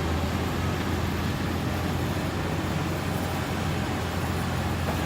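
Steady engine drone with no change in pace, a constant low hum under a haze of noise.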